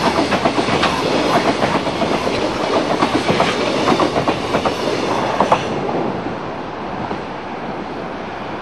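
Freight train wagons rolling by, their wheels clattering rapidly and unevenly over the rail joints; the clatter thins and the sound eases off from about six seconds in.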